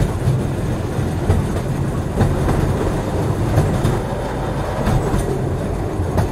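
A train running over rails: a steady low rumble of wheels, with short clacks at irregular intervals of about a second as the wheels cross rail joints.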